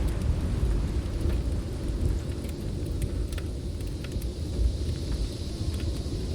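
Snowstorm wind with a steady low rumble, with the scattered crackles and pops of a wood fire; a higher hiss swells in the second half.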